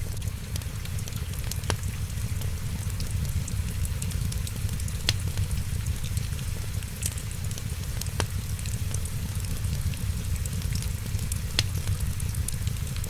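Wood fire crackling in a fireplace: a steady low rumble and hiss, with many small crackles and a sharp pop about every three seconds.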